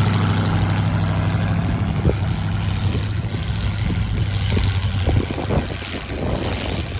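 Truck engine running, a steady low hum that weakens about halfway through, leaving rougher, uneven noise with a few knocks.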